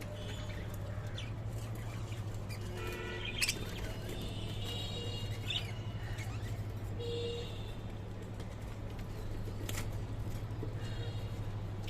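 Small pet parrots chirping in short, scattered calls over a steady low hum, with a couple of sharp clicks.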